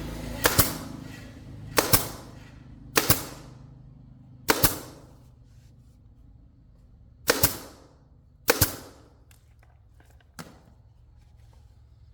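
A series of sharp bangs: six loud ones about one to three seconds apart, each with a short ringing tail, and a faint seventh near the end, over a low steady hum.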